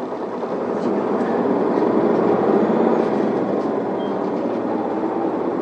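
Isuzu Erga city bus heard from inside the cabin as its diesel engine pulls away from a stop and gathers speed. The noise builds over the first couple of seconds, then runs steadily.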